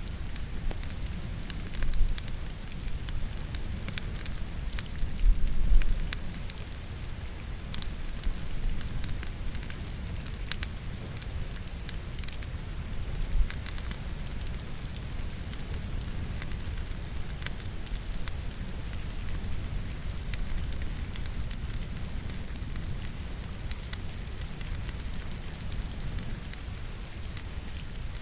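Wood logs burning in a fireplace, crackling and popping with many small sharp snaps, over steady rain and a low rumble. A few louder low thuds come about 2 seconds, 5 to 6 seconds and 13 seconds in.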